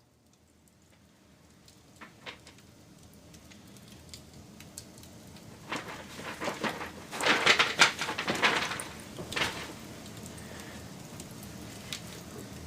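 Wood fire crackling: faint at first, building to a dense run of loud pops and crackles in the middle, then settling into a steady low hiss.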